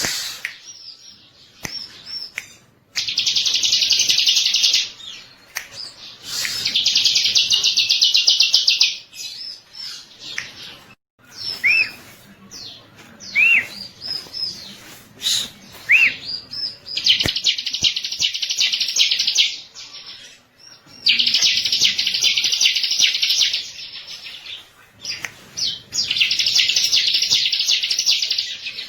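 Bar-winged prinia (ciblek) singing: five long, rapid, buzzy trills of one and a half to three seconds each, with short chirps and sharp upward-hooked notes in the gaps between them.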